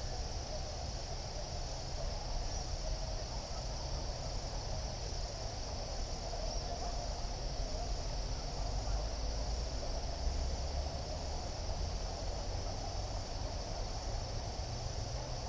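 Crickets chirping in a steady, unbroken high-pitched chorus, over a low rumble.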